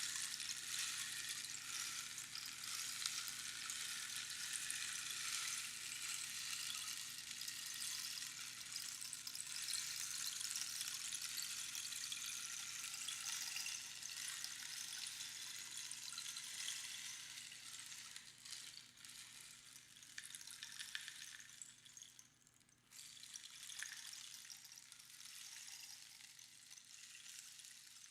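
Rainstick: pebbles or beans trickling down over the pins inside the hollow cactus tube in a dense, rain-like patter that thins out in the second half, stops briefly about two-thirds through, then resumes more softly and fades.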